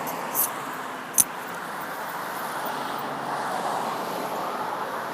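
Road traffic noise: a steady hiss of vehicles on a nearby road that swells slightly in the second half, with a short click about a second in.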